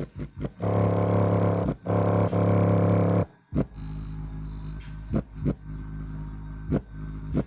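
A bare 6-inch Samsung subwoofer driver, run free air (no box) from a big amplifier, playing a bass-heavy track. It gives loud, buzzy low notes for about three seconds, with a short break near two seconds. It then drops to quieter low tones with a beat of sharp thumps.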